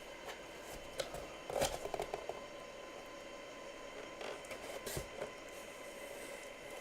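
Faint handling noises of a cardboard jersey box being opened: a few scattered clicks, a short run of crackling ticks about a second and a half in and a sharper click about five seconds in, over a faint steady hum.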